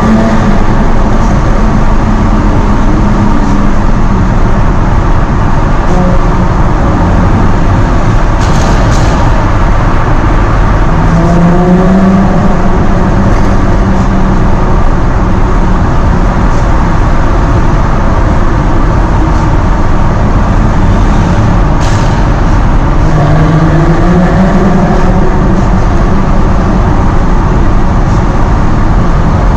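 Jaguar F-Type sports car driving under a loud, steady rush of road and wind noise, its engine note rising and then holding three times as it pulls up through the revs. Two brief sharp cracks come about a third of the way in and again near three quarters.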